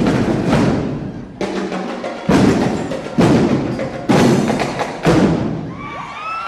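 A drumline drums fast, then after a short break strikes four loud unison hits about a second apart, each ringing out.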